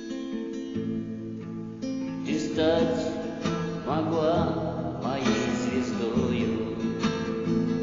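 Acoustic guitar strumming chords, accompanying a Russian courtyard song. About two seconds in, a wavering melody line comes in over the chords.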